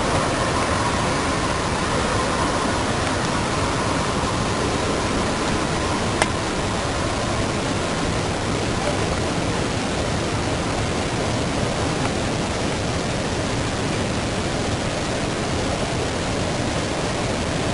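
Steady, even rushing noise from an amplified outdoor recording of a long, jet-like rumble in the sky with no aircraft in sight. A faint steady tone shows in the first few seconds, and there is a single click about six seconds in.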